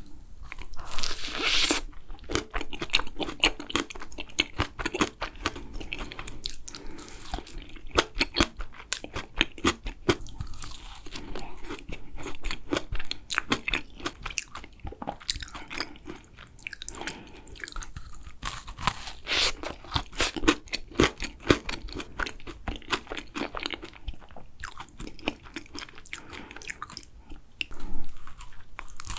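Close-miked chewing of a macaron, with a steady run of crisp crunches from the shell and a louder bite about a second and a half in.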